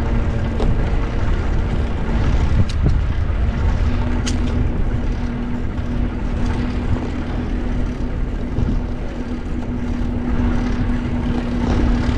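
Wind rushing over an action camera's microphone while riding a bicycle, a steady low roar with traffic underneath and a steady low hum that sets in about three and a half seconds in. A couple of short sharp clicks stand out near the start.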